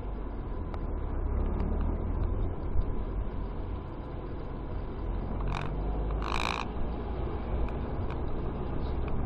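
Steady low rumble of a vehicle on the road, heard from inside the car. A little past halfway come two short higher-pitched sounds, the second a brief tone with a stack of overtones.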